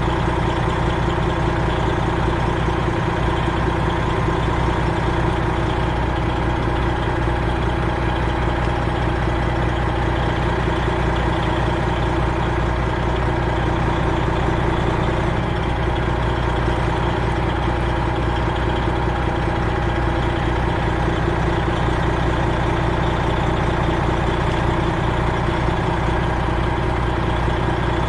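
Freightliner Classic XL semi truck's Detroit Series 60 diesel engine idling steadily.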